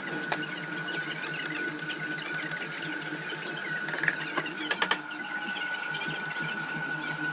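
Steady mechanical hum with a thin high whine, and a few sharp clicks, most of them about four to five seconds in.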